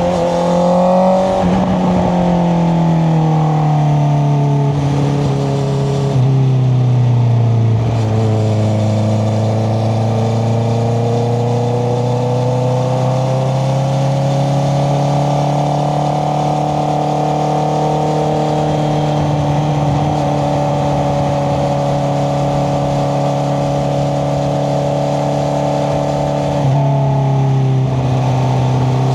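Honda CBR650R inline-four running through an Akrapovic exhaust with the dB killer fitted, heard from on the bike while riding. The engine note steps down in pitch several times in the first eight seconds as it shifts up through the gears. It then rises slowly and holds steady under light throttle, with one more upshift near the end.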